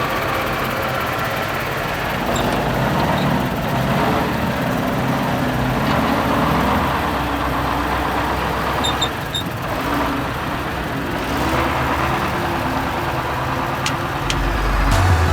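Heavy military truck diesel engine running steadily.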